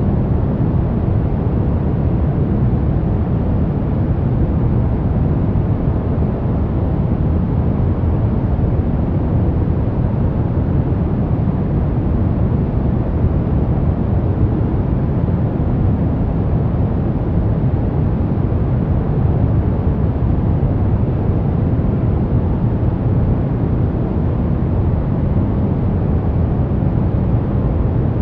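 Steady, unbroken white noise for baby sleep, deep and rumbly, with most of its weight in the low end and little hiss up top; it does not change.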